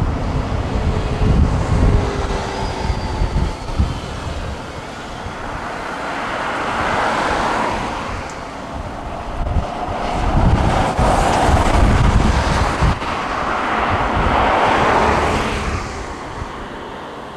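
Gusty wind buffeting the microphone over the steady rumble of a jet airliner's engines, the engine noise swelling and fading several times.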